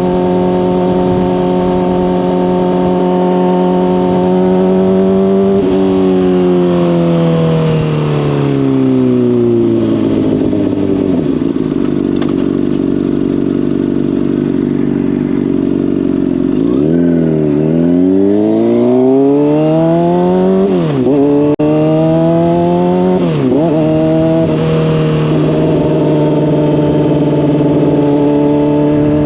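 Honda CBR600RR inline-four through a slip-on exhaust, running steadily at speed, then rolled off so the engine note falls away to low revs. It then accelerates hard, its pitch climbing with quick upshifts where the note drops sharply, and settles into a steady cruise.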